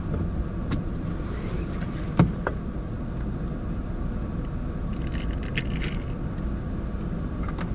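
Honda N-BOX with a steady low rumble inside the cabin. A few sharp clicks cut through it, the loudest a knock about two seconds in, with a cluster of light high clicks around five to six seconds.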